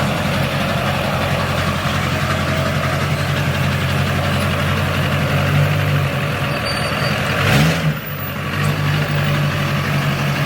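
Truck engine idling steadily, with one short rev blip about seven and a half seconds in.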